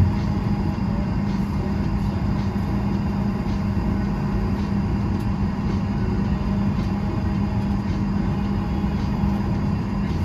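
Steady hum of a parked airliner's cabin air conditioning, a continuous low drone that does not change.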